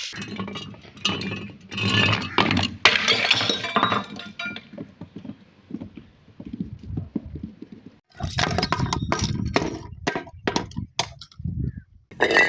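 Glass bottles clinking and knocking together, with some glass breaking. The sharp hits come in two busy clusters, starting about a second in and again past the middle, with scattered lighter clinks between.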